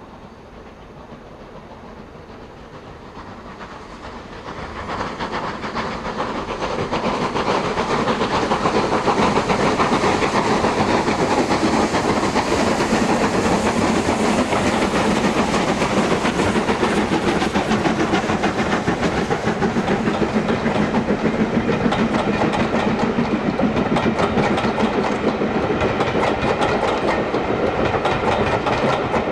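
Two steam locomotives double-heading a train up a steep 1-in-49 gradient, working hard. The sound swells from about four seconds in to a loud, steady passing, with hissing and a rhythmic clatter of wheels over rail joints in the second half.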